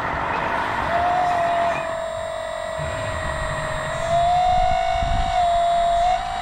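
A radio-controlled model construction machine giving a steady high-pitched whine. It starts about a second in and steps up slightly in pitch partway through, over a low rumbling.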